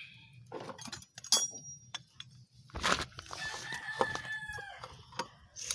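A rooster crowing, one long held call starting a little after three seconds in. Before it come a sharp metallic clink and a loud knock.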